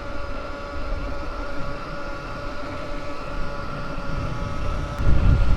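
Electric dirt bike riding along at a steady speed: a steady motor whine over wind rumbling on the microphone, with the wind rumble growing louder near the end.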